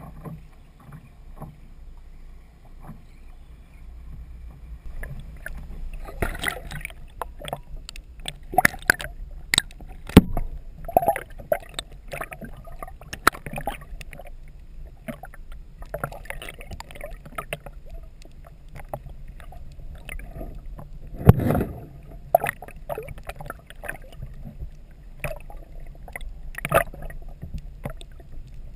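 Water lapping and splashing around a fishing kayak, with scattered knocks and clatters against the hull, the two loudest about ten and twenty-one seconds in, over a steady low rumble of wind and water.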